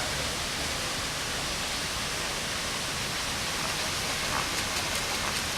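Steady rushing noise of falling water, like a waterfall.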